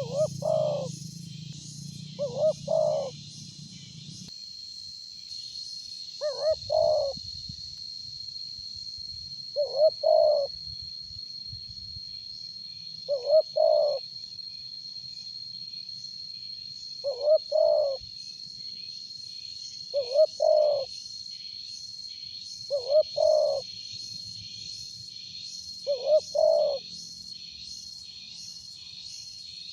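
Spotted dove cooing, a short phrase of two or three coos repeated about every three seconds. Behind it run a steady high-pitched tone and a fast, pulsing high chirping, with a low hum that stops about four seconds in.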